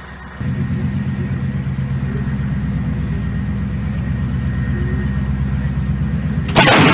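Heavy engine running steadily at a low, even pitch, coming in suddenly about half a second in. Near the end a sudden loud blast breaks in over it.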